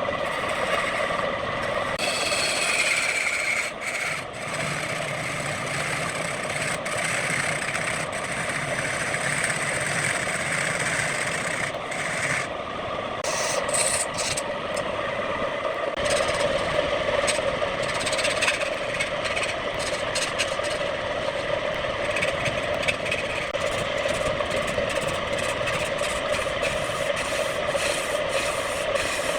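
Wood lathe running with a steady motor hum while a tool scrapes and rubs against the spinning wood, the scraping changing character a few times.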